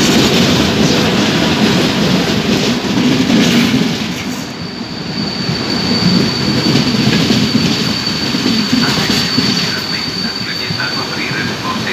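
Historic passenger coaches rolling slowly past on arrival, wheels rumbling and clattering over the rails. About four seconds in a steady high-pitched wheel squeal sets in and holds almost to the end as the train slows.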